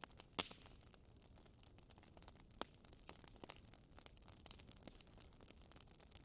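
Wood fire crackling in a fireplace: quiet, irregular small pops and snaps, with a sharper pop about half a second in and another a couple of seconds later.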